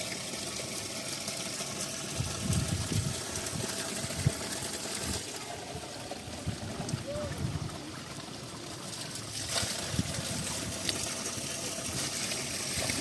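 Spring water running steadily, with a few low thuds and a sharp knock about four seconds in.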